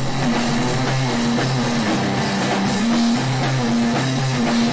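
Live rock band recording: an electric guitar riff of short repeated low notes over a drum kit.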